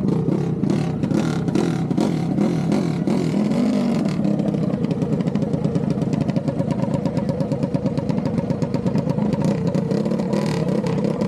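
Motor vehicle engines running, their pitch wavering a little without any big rev, with a fast ticking clatter.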